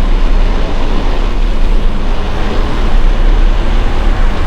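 Wind buffeting the microphones of an Insta360 X5 camera on a bicycle moving at speed: a loud, steady rush of noise, heaviest at the low end.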